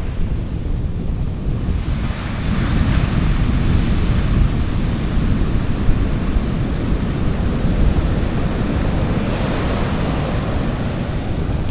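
Gentle sea waves breaking and washing up on a beach, one wash swelling about two seconds in and another near the end, over a steady low rumble of wind on the microphone.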